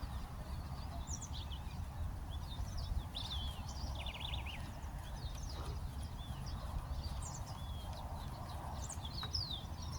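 Small birds chirping and twittering in short, quick calls scattered throughout, over a steady low rumble.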